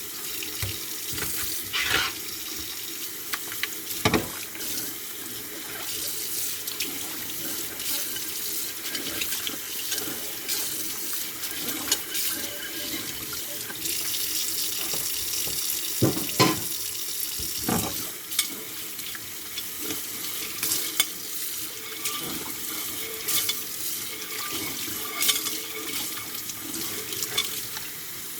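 Tap water running into a kitchen sink while dishes are washed by hand, with scattered clinks and knocks of dishes against the sink.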